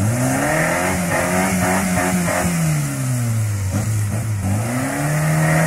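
Suzuki off-road 4x4's engine revving under load as it climbs through a rough hole. The revs rise at the start, hold, drop back about three seconds in, then rise again near the end.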